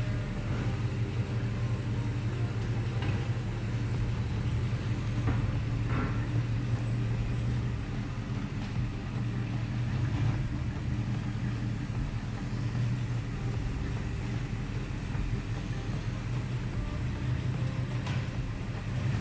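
A car engine running steadily: an even low drone that holds without revving up or down, with a few faint clicks over it.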